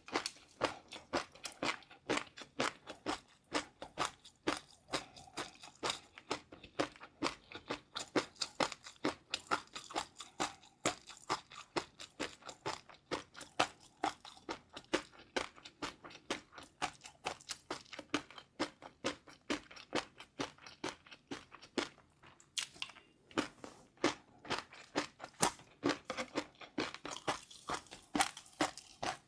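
Close-miked chewing of crunchy food: rapid crisp crunches, several a second, going on steadily with a brief pause about two-thirds of the way through.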